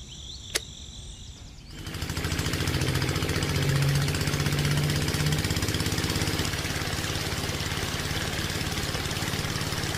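A small engine starts up about two seconds in and runs steadily with a fast, even pulse, after a single sharp click.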